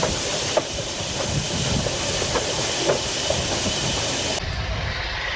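GER N7 0-6-2T steam tank locomotive running, with a steady hiss of steam and scattered knocks and rail clatter. The high hiss drops away suddenly about four seconds in.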